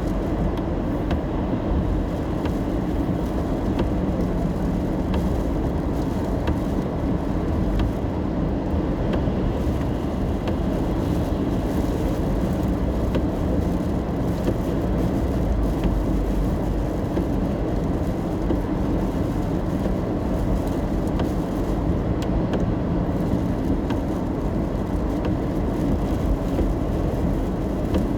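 Steady low rumble of road and engine noise inside a car driving in the rain, with faint scattered ticks of raindrops.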